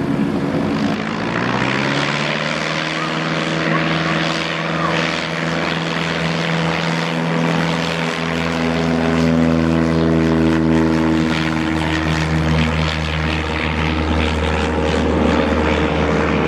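Propeller airplane engine running at high power. Its pitch rises about two seconds in and then holds steady.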